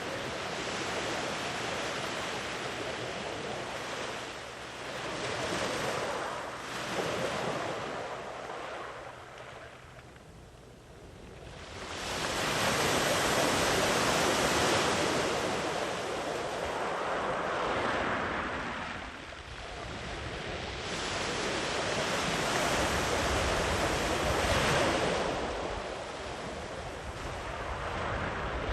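Sea waves breaking and washing up a beach, the surf rising and falling in long swells, with a lull about ten seconds in before a big wave surges in about twelve seconds in. Some wind on the microphone.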